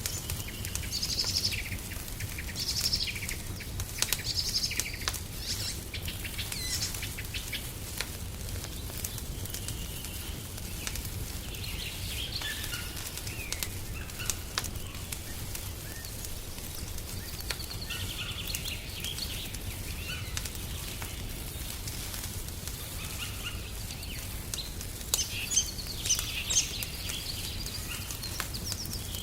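Small birds chirping and singing over a crackling wood fire, with scattered sharp pops and a low steady rumble underneath.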